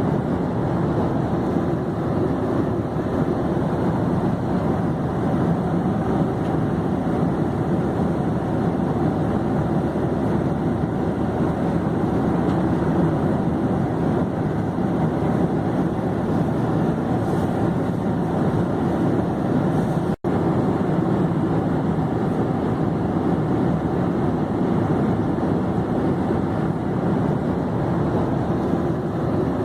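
Airplane in flight: a steady, unchanging drone of engines and rushing air, strongest in the low-to-mid range. It is broken once, about two-thirds of the way in, by a split-second gap.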